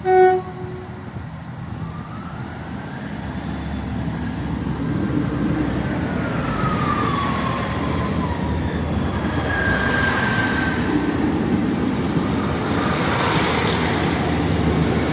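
A train horn's short final note, then a train running through the station, its rumble growing steadily louder, with whining tones that glide down in pitch and high metallic squeals.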